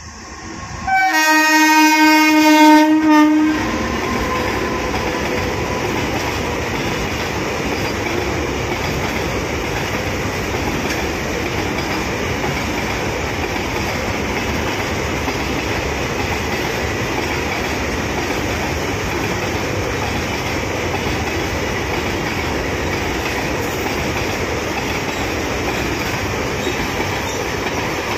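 WAG-9 electric locomotive's horn sounds about a second in and is held for roughly two and a half seconds. Then comes the steady running noise of a long container train's wagons rolling past on the rails.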